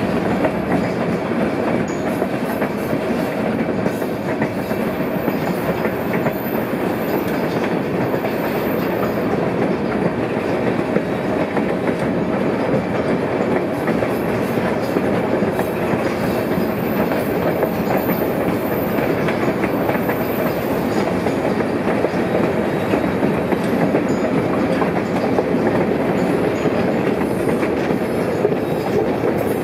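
White Pass & Yukon Route narrow-gauge passenger train running along the track, the steady noise of its wheels on the rails heard from aboard the car.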